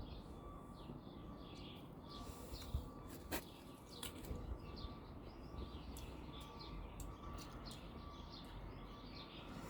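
Many small birds chirping and twittering together in quick short calls, over a low background rumble. Two sharp clicks stand out a little past three and four seconds in.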